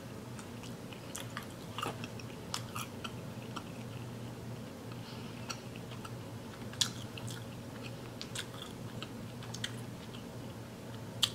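A person chewing a mouthful of seafood boil up close, with wet mouth clicks and smacks and a few louder clicks scattered through. A low steady hum sits underneath.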